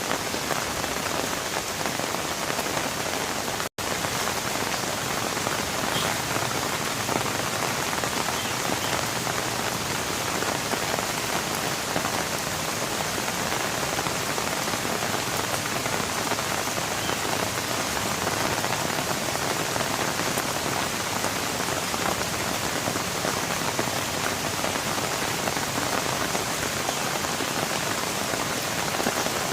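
Steady rain falling, a dense, even patter with no letup, broken only by a split-second dropout about four seconds in.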